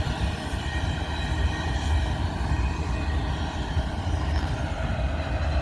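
Freight train rolling slowly past: a steady low rumble of the cars, with a faint high wheel squeal that fades away.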